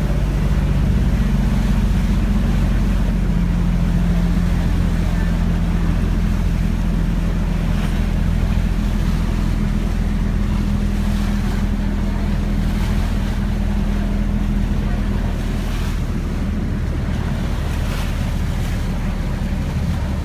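A boat's motor running steadily at cruising speed, a low drone, with wind on the microphone and the rush of water against the hull.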